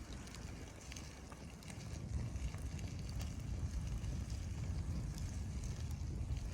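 Wind buffeting the microphone: a steady, gusting low rumble, with a few faint scattered ticks over it.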